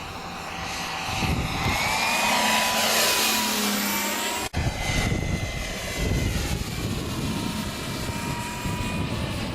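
Model turboprop engine of a radio-control Pilatus Porter running: a turbine whine over propeller and exhaust rush, its pitch drifting up and down. The sound breaks off for an instant about four and a half seconds in.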